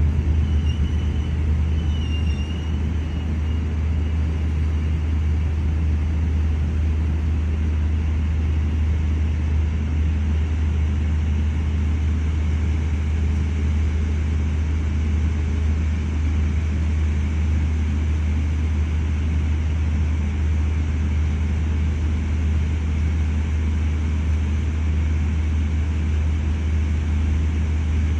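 Steady low hum and rumble of a KTM Intercity train heard from inside the carriage. A few faint, wavering high-pitched tones come in the first three seconds.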